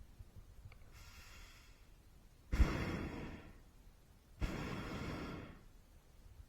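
Hot air balloon propane burner fired in short blasts: a faint one, then two louder blasts of about a second each that start suddenly and fade out.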